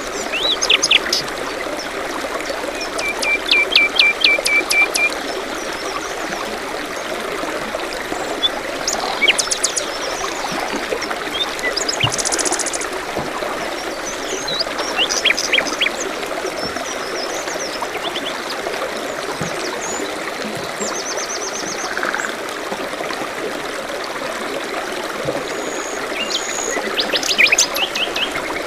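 A small stream trickling steadily, with songbirds chirping and calling over it in short quick runs of high notes every few seconds, including a couple of rapid trills.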